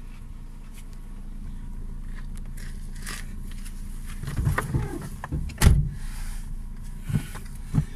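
Car engine running with a steady low hum, with a few knocks and one sharp thump about five and a half seconds in.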